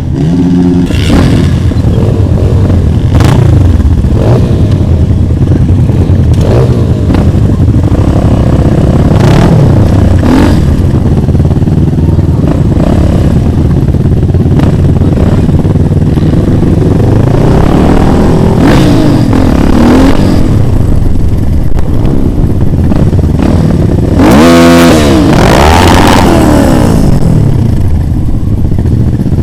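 Motorcycle engine running loud as it is ridden, its pitch repeatedly rising and falling, with a sharp rev late on.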